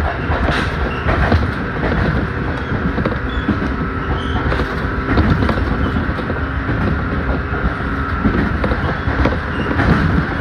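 Hokuriku Railroad Ishikawa Line electric train running along the track, heard from inside its cab: a steady rumble of wheels on rails with a few scattered clicks.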